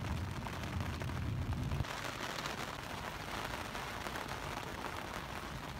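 Heavy rain during a thunderstorm aboard a sailing yacht. A deep low rumble fills the first two seconds, then gives way abruptly to a steady, dense hiss of rain.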